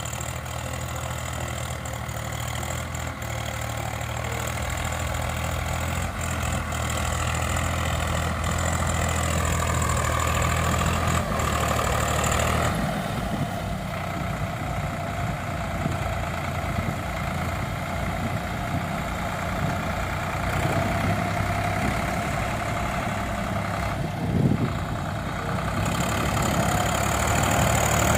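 Diesel tractor engine running steadily; its note changes about halfway through, and it grows gradually louder toward the end.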